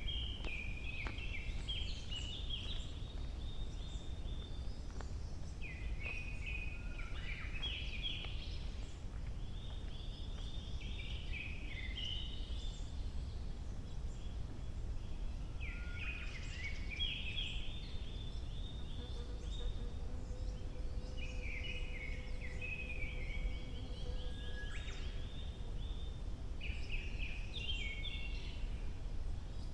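A songbird singing one complex, twittering phrase about every five seconds, six times in all. Under it runs a steady low background rumble.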